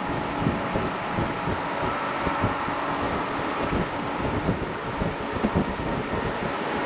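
Wind buffeting the microphone at the open window of a moving Berner Oberland Bahn train, over the train's steady running noise.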